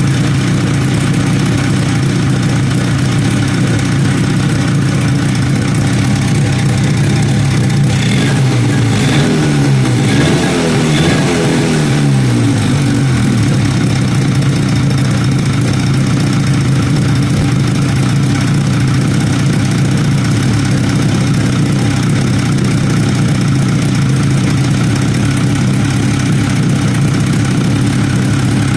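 RMZ-640 two-stroke twin-cylinder engine idling steadily. About eight seconds in it is revved up briefly and drops back to idle by about thirteen seconds.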